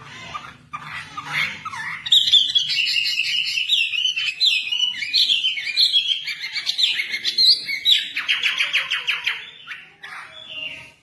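Wambi songbird singing in full voice. A few soft chirps lead into a loud, fast run of varied sharp chirps and warbles, and about eight seconds in a rapid, even trill closes it.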